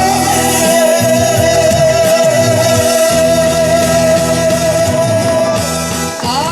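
Live trot singing over a backing track: the singer holds one long note for about six seconds while the accompaniment plays on, and the note breaks off near the end.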